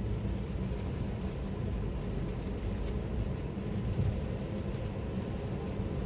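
Steady low road and tyre rumble inside the cabin of a Tesla driving on wet streets, with a faint click about three seconds in.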